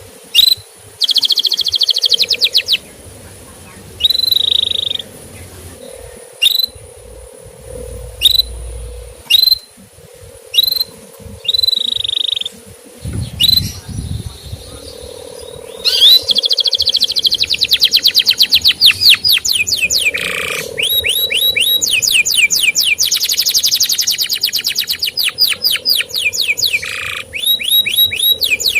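Male canary singing: short rising "cuit" chirps and brief trills spaced a second or two apart, then a fast, unbroken trilling song from just past halfway.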